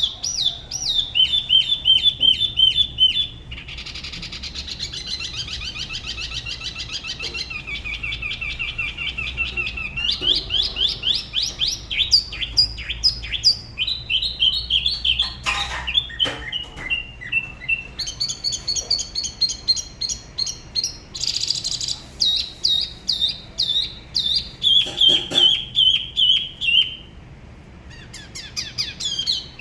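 Spot-throated babbler singing: a long run of fast, repeated whistled notes, the phrases shifting in pitch and pattern every few seconds, with a brief pause near the end.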